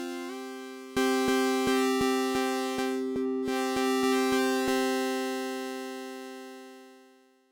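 Elektron Syntakt's SY Bits digital synth engine playing a buzzy, overtone-rich tone with no effects. The pitch steps up just after the start. From about a second in, notes retrigger about three times a second. The last note then fades away to silence near the end.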